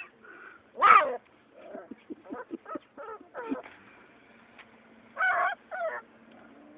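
Animal calls: one loud cry about a second in, a quick run of short calls, then two more cries near the end.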